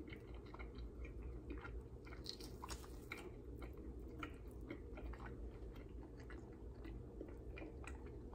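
A person chewing a mouthful of dry-rub barbecue rib meat close to the microphone: faint, wet mouth clicks and smacks, many small ones in a steady, uneven stream.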